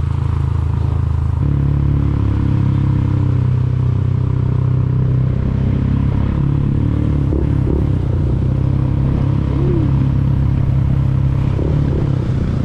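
Vehicle engine running steadily, heard while riding along. Its pitch steps up about a second and a half in and shifts again about halfway through as the speed changes.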